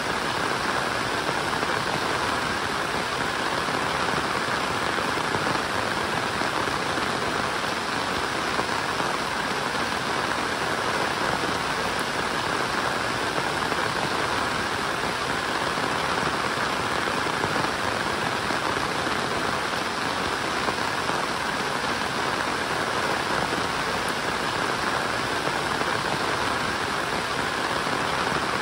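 Steady rainfall: a continuous, even patter of rain that neither builds nor eases.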